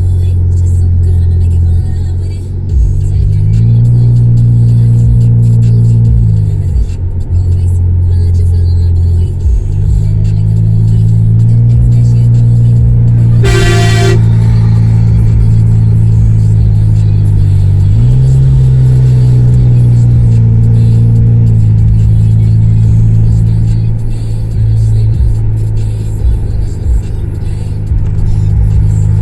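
Honda CR-V engine running through an exhaust with the resonator and muffler deleted, a loud low drone whose pitch rises and falls several times as the revs change. A short car-horn honk sounds about halfway through.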